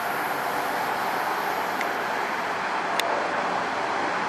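NJ Transit Arrow III electric multiple unit pulling away into the distance: a steady noise of the train running on the rails, mixed with road traffic. There is a sharp click about three seconds in.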